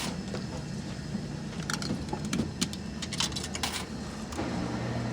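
Scattered light clinks and rattles of small hard objects being handled, then a steady low machine hum sets in near the end.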